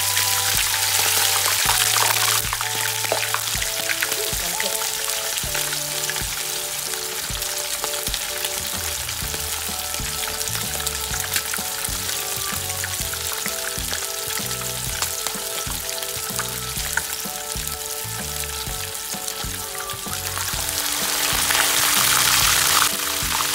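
Blue marlin steaks frying in hot oil in a pan: a steady sizzle, louder in the first couple of seconds and again near the end, over background music.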